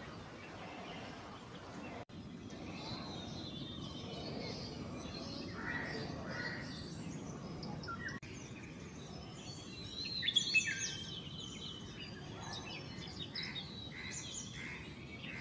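Field recording of birds chirping and calling over a steady background hiss, with a denser run of calls about two-thirds of the way through.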